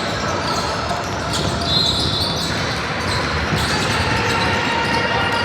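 Steady hubbub of a youth team game in a large indoor hall: spectators and players, with a brief high squeak-like tone about two seconds in.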